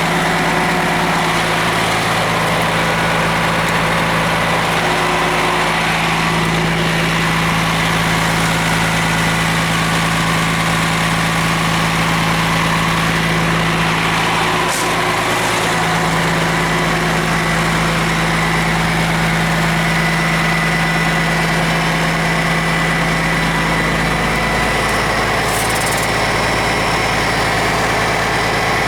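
Cummins ISM turbo diesel engine of a Blue Bird LTC-40 coach idling steadily.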